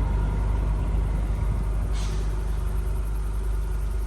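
2021 Acura TLX Type S's turbocharged 3.0-litre V6 idling steadily, heard at the quad exhaust tips. A short hiss comes about two seconds in.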